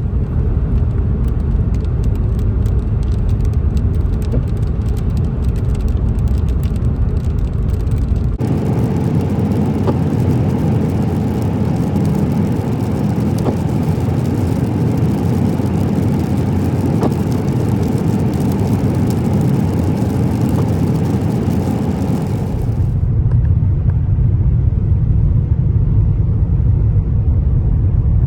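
Car driving at speed: steady engine and road rumble, in three stretches that change abruptly about eight seconds in and again near twenty-three seconds.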